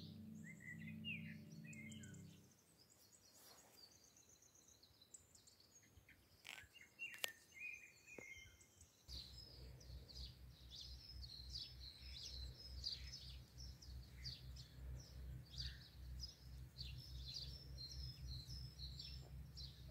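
Small birds chirping and calling, faint, with a couple of sharp clicks about a third of the way in. Background music fades out about two seconds in, and a low, evenly pulsing beat comes in about halfway.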